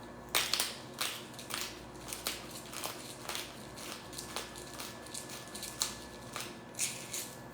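Black pepper being ground into a bowl: a run of irregular, crunchy clicks, a few a second.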